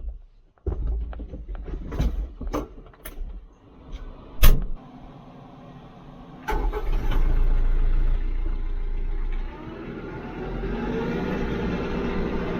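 Several knocks and clicks, then about six and a half seconds in the TYM T574 tractor's diesel engine starts and runs loudly for a few seconds before settling into a steady, quieter run.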